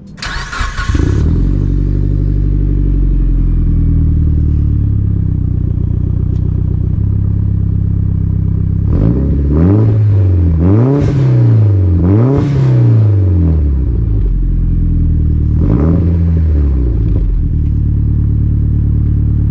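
Mitsubishi Lancer Evolution IX's turbocharged 2.0-litre inline-four (4G63) breathing through a muffler-delete pipe: a brief crank and start, then idling. It is blipped three times in quick succession around the middle and once more a few seconds later, settling back to idle. It runs only a little louder than stock, not that loud.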